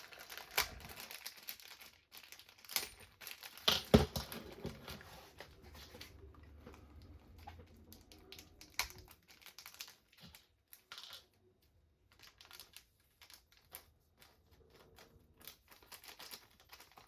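Plastic parts bag crinkling, with small hard parts clicking and a sharp knock about four seconds in, then scattered light clicks as small pieces are handled.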